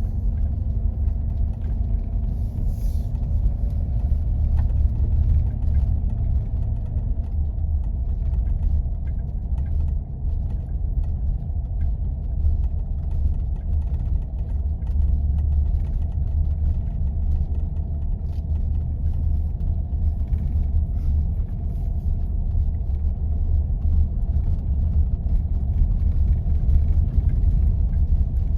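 Jeep 4x4 driving on snow-covered roads: a steady low rumble of engine and tyres, with a faint hum that fades out about six seconds in.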